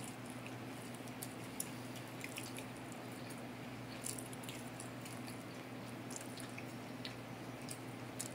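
A person biting into and chewing pizza: soft, scattered wet mouth clicks and smacks over a steady low hum.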